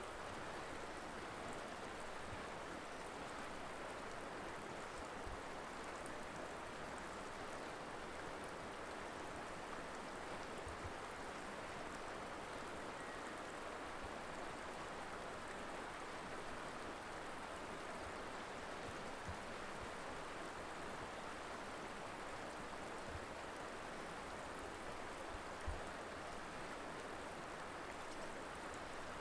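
Colorado River flowing in a steady, even rush of water, with a few faint low thumps, one slightly louder about three-quarters of the way through.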